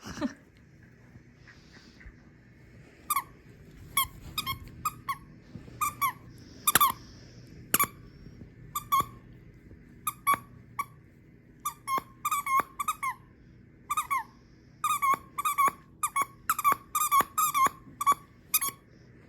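A dog's squeaky toy squeaking again and again as the dog chews and plays with it: short, irregular squeaks, coming thicker and faster in the second half.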